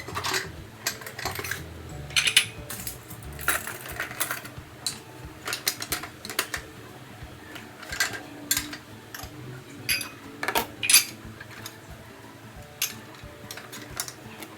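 Irregular sharp clinks and clicks of small hard objects being handled, over soft background music.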